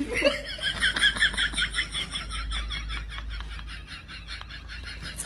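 A rapid, even run of high bird-like chirps, about seven a second, loudest at the start and slowly fading, over a low steady rumble.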